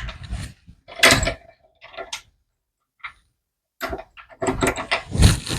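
Metal clicks, knocks and scrapes of a brake-line flaring tool's clamp being closed and tightened around a 3/16 brake line and its dies, in irregular short bursts that are busiest from about four seconds in.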